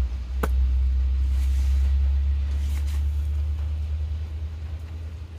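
A low rumble, strongest in the first couple of seconds and slowly fading, with a single sharp click about half a second in.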